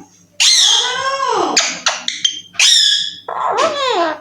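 A pet parrot calling loudly: a long falling squawk, a run of short high whistled notes, then two more falling calls.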